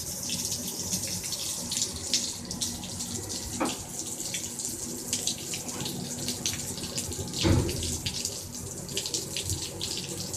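Steady rain falling and dripping, a hiss dotted with many small ticks, with a low thump about seven and a half seconds in.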